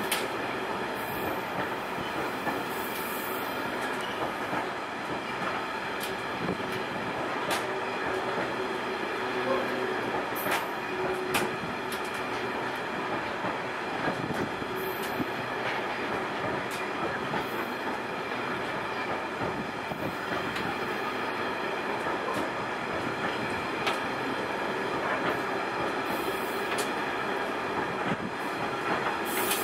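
Loaded MLA open box wagons rolling steadily past: a continuous wheel rumble with irregular sharp clicks as the wheels cross rail joints, and a few brief high squeals from the wheels.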